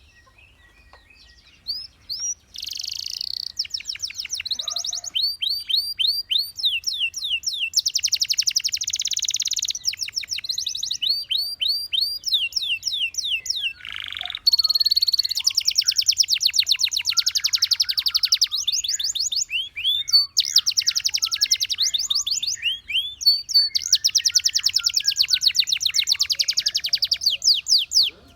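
Domestic canary singing: phrases of repeated downward-sliding whistles alternating with very fast trills. The song starts about two seconds in and then runs on without a break.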